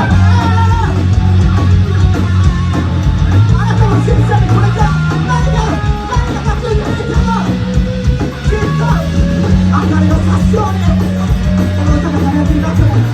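Live rock band playing at full volume: electric guitars over a steady bass line, with a singer's melody on top.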